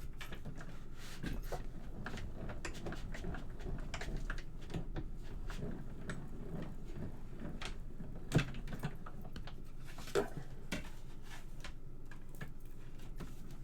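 Hand-cranked die-cutting and embossing machine being turned, feeding a plate sandwich with an embossing folder through its rollers, with a low rumble and many small clicks. Two sharper knocks come about eight and ten seconds in.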